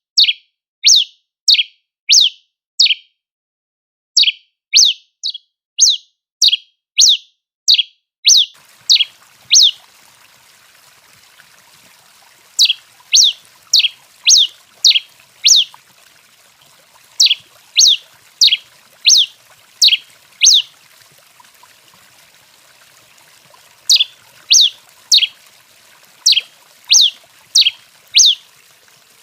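Tico-tico-rei (pileated finch) calling: runs of short, sharp notes, each sweeping down in pitch, about two a second, broken by pauses of a few seconds.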